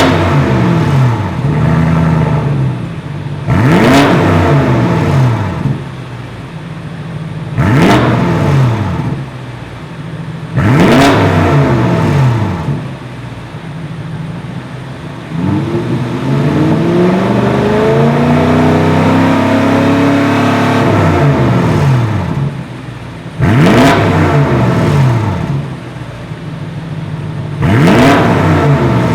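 BMW X7 M50i's twin-turbo V8 through an ARP valved aftermarket exhaust, idling between quick throttle blips: five short revs that rise and fall back, plus one longer rev held for several seconds in the middle.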